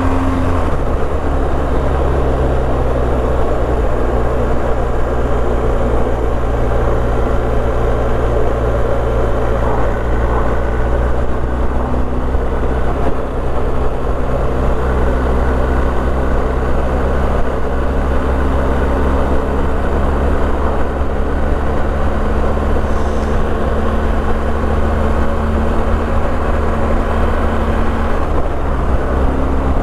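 BMW R1250GS boxer-twin motorcycle engine running at a steady cruise, with wind rush over the rider's microphone. The engine note drops about a second in, as on an upshift, then holds steady.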